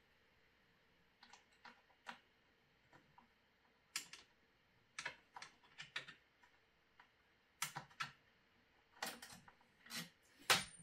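Scattered light clicks and taps, irregular and a few at a time, from hands and a tool working on the 3D printer's parts, growing louder near the end.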